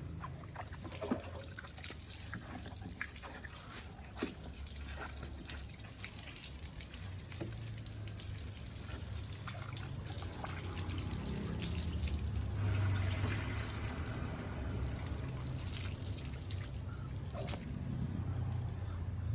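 Water dripping and trickling with scattered small splashes and taps, over a low steady rumble, as a motorcycle is washed down.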